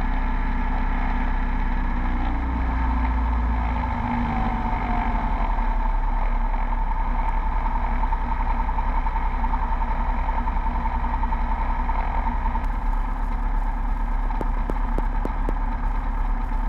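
Beechcraft Bonanza V35's six-cylinder Continental piston engine and propeller running steadily after the run-up checks, its pitch falling about three to four seconds in as the power is brought back. A series of sharp clicks comes in over the engine near the end.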